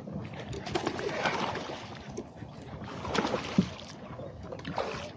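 Irregular knocks and rustling on a fishing kayak, the sounds of moving and handling gear aboard, with water moving against the hull.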